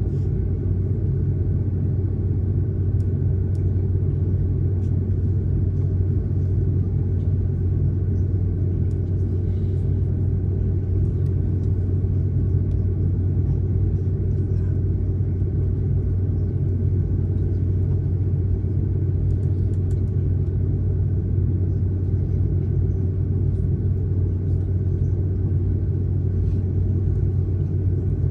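Steady low rumble of a jet airliner heard from inside the passenger cabin, with faint steady whining tones above it and no change in level.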